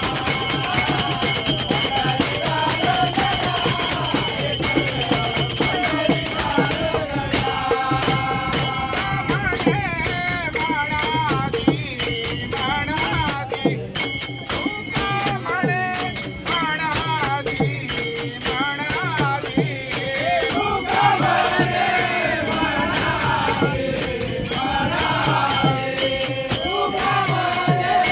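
A bhajan group singing devotional music to a fast, steady beat of jingling hand percussion. For the first seven seconds or so there is a dense high ringing; after that, struck beats and chanted singing come through clearly.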